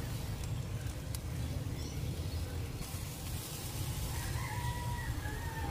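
A bird's long drawn-out call starting about four seconds in, over a steady low rumble.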